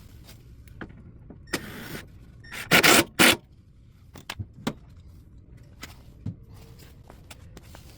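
Workshop handling noises: scattered knocks and clicks, a brief hissing noise, and two loud short bursts close together about three seconds in.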